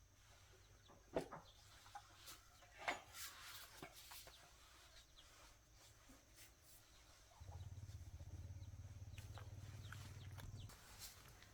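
Faint clucking of chickens, with a few sharp clicks, and a low steady hum for about three seconds past the middle.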